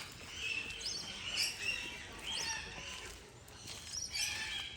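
Birds chirping: a string of short, high calls and quick upward-sweeping whistles, coming every half second or so.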